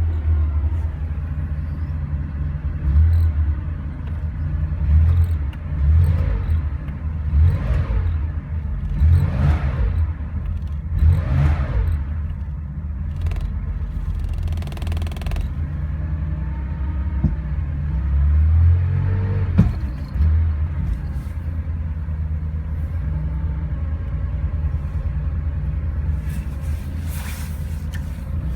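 1970 Porsche 911T's air-cooled 2.2-litre flat-six idling and being blipped, a string of quick revs that each rise and fall during the first twelve seconds or so, then settling to a steady idle. It is fitted with aluminium cylinders, which the owner thinks may be 911S pistons and cylinders, giving it its free-revving pickup.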